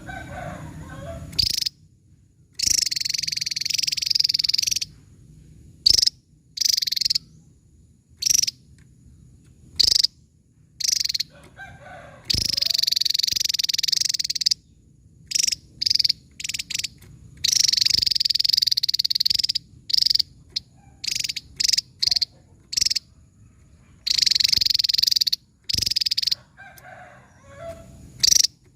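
Javan tesia singing: high, sharp bursts of song, some runs lasting about two seconds and many short notes between them, repeated again and again.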